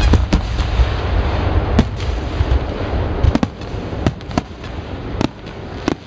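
Fireworks display: a dozen or so sharp bangs at irregular intervals over a continuous low rumble of shells bursting overhead.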